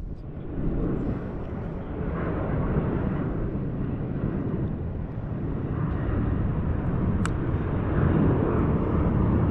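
Low rumble of a passing airplane's engines, growing steadily louder over several seconds.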